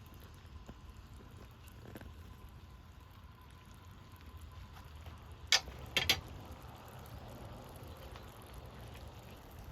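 Small wood fire burning in a compact fire stand, with faint scattered crackles over a steady low rumble. Two sharp clicks about half a second apart come a little past the middle.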